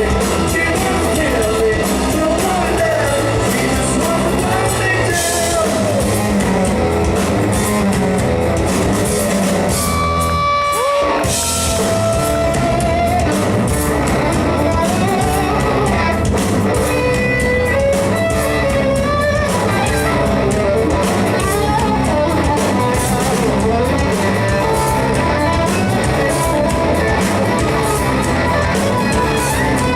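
Live rock trio playing a song: electric guitar and drum kit with singing, echoing in a hall. The drums drop out briefly about ten seconds in while a guitar note bends, then the band comes back in.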